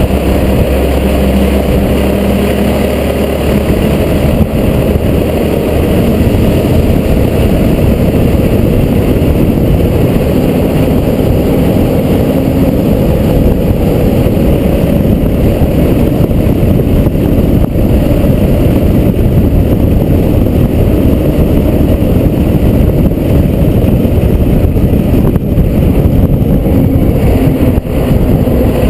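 Fire truck's engine running with a steady, loud rumble.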